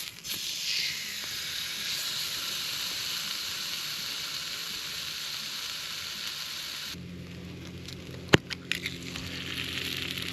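Steak sizzling on a hot plate over a campfire, a dense, steady frying hiss that cuts off suddenly about seven seconds in. After that a quieter background with a sharp crack about a second later.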